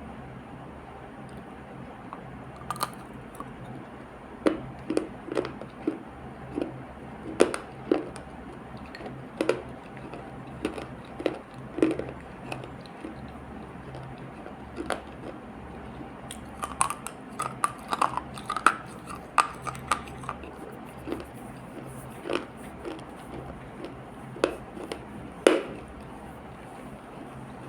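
Someone chewing and biting a crunchy earthy paste close to the microphone: irregular crunches and clicks, thickest about two thirds of the way through, over a steady low hum.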